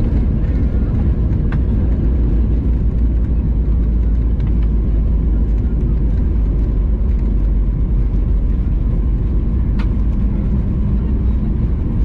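Steady low rumble of engine and airflow noise heard inside the cabin of a Boeing 737 MAX 8-200 airliner, with a couple of faint clicks and a faint steady hum coming in near the end.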